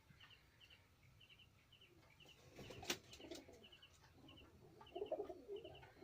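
Faint pigeon-loft sounds: a soft, high chirping repeating about twice a second, and low pigeon cooing that comes in near the middle and again near the end. A single sharp tap about three seconds in.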